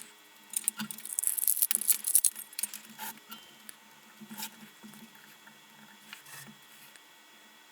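Small clicks, taps and scratchy rustling of lantern parts and wires being handled and worked apart on a workbench. A dense cluster comes in the first two seconds, then single clicks about three, four and a half and six seconds in.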